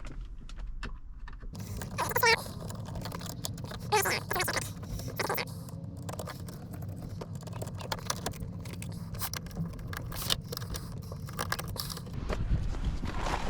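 Clicking, rattling and scraping of plastic centre-console trim pieces and parts being handled and worked loose inside a car, with a steady low hum underneath from about a second and a half in.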